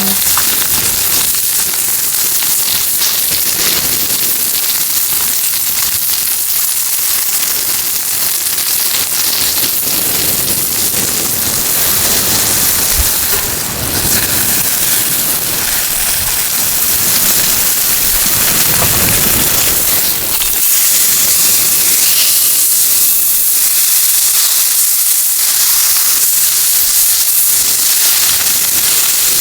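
Food sizzling steadily in a hot frying pan over a campfire, a dense hiss with faint scattered crackles.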